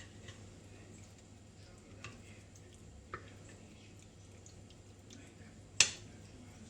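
Kitchen handling noises: faint clicks about two and three seconds in, then one sharp knock near the end.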